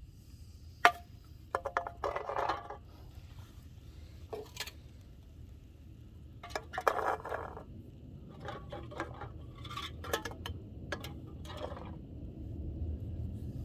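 Small metal clinks and rattles with sharp clicks: steel BBs being handled and loaded into a BB gun. There is a loud click about a second in, rattling around two and seven seconds in, and scattered clicks later.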